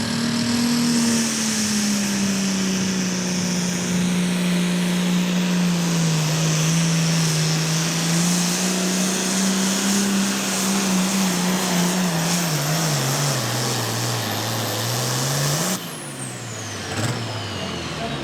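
Pro Farm pulling tractor's diesel engine running flat out as it drags the weight-transfer sled down the track. Its pitch sags from about ten seconds in and drops further as the engine bogs under the load. It revs up briefly and shuts off suddenly about 16 seconds in, at the end of the pull.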